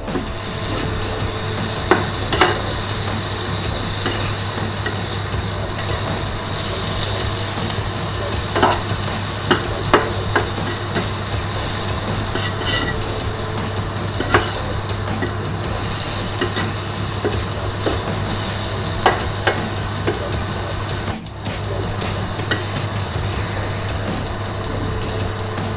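Meat, yellow pepper strips and garlic sizzling on a stainless-steel Solis teppanyaki grill plate, with metal spatulas scraping and tapping on the plate every second or two as the food is turned.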